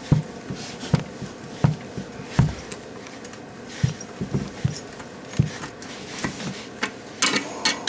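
Short low knocks repeating about once every second, with a cluster of sharp clicks near the end: hand work on a toilet's closet bolts, rocking them back and forth to snap them off.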